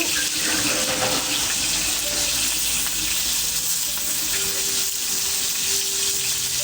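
Wood cooking fire hissing and sizzling steadily as the water in damp leaves on it boils off, with faint thin whistling tones over the hiss.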